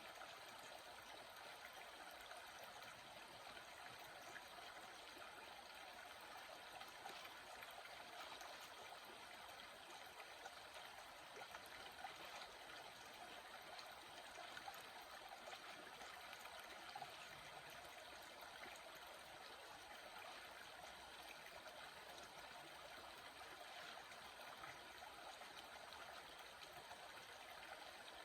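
Small water stream trickling and babbling steadily, faint.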